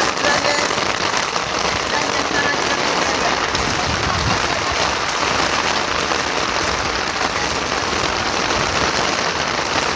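Heavy rain falling and pattering on surfaces, a steady hiss of many drops.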